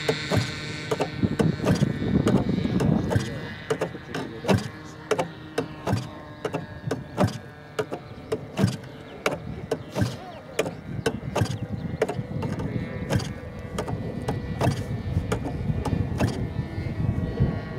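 Irvine .53 two-stroke glow engine of a model plane running, a steady tone beneath frequent irregular clicks and knocks.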